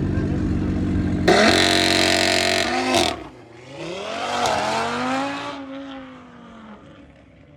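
Car engine running low, then revved hard and held high for about a second and a half before dropping off. A second rev follows, its pitch rising and falling, then fades away.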